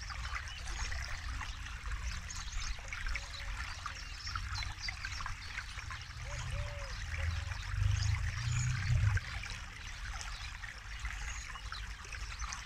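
A forest river flowing and trickling steadily, with faint short bird chirps above the water. A low rumble swells about seven seconds in and drops off sharply about two seconds later.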